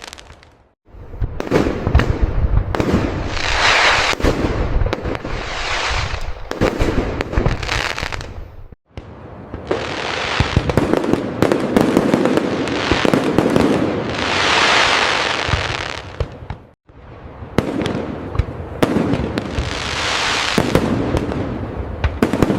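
Aerial fireworks display: rapid sharp bangs of bursting shells with long crackling and hissing between them. The sound drops out briefly three times, about a second in, near nine seconds and near seventeen seconds.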